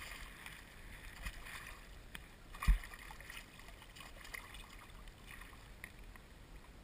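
Water lapping and sloshing around a fishing kayak, with small scattered ticks and one short low thump about two and a half seconds in.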